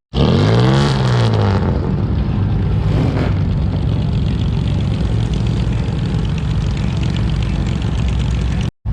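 An engine revs up and back down once just after the start, then runs on steadily with a low, even hum.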